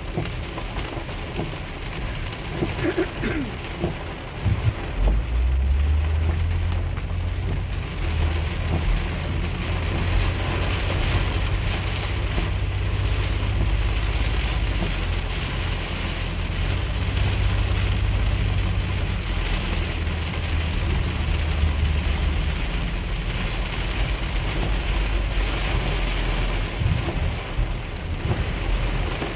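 Heavy rain falling on a minivan's roof and windshield, heard from inside the cabin while driving on a flooded road, with a steady low rumble that comes in about five seconds in.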